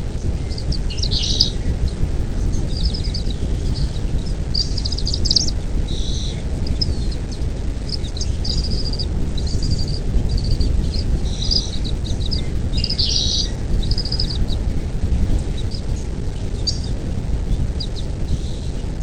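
Wild birds chirping in short, scattered calls over a steady low rumble like wind on the microphone.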